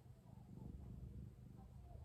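A domestic cat purring, a low pulsing rumble that swells and dips with its breathing.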